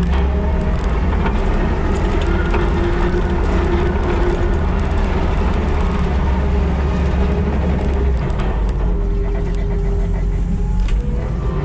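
Skid steer engine running under load, a steady low drone that eases off about eight seconds in.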